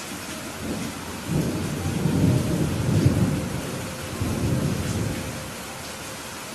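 Steady rain with a roll of thunder: a low rumble comes in about a second in, swells twice and fades out near the end, over the constant hiss of the rain.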